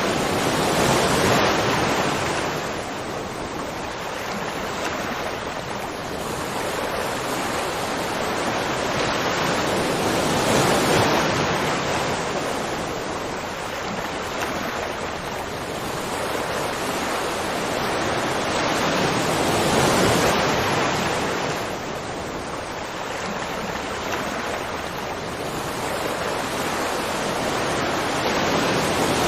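Continuous rushing water that swells and eases in slow surges about every nine to ten seconds.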